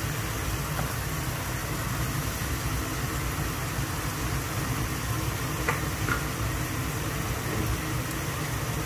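Ground chilli curry paste sizzling steadily in oil in a wok, fried until the oil has separated from the paste, over a steady low hum. A wooden spatula scrapes the pan a few times.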